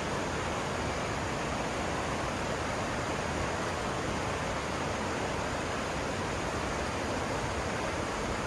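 Mountain stream water rushing steadily, a continuous even rush with no breaks.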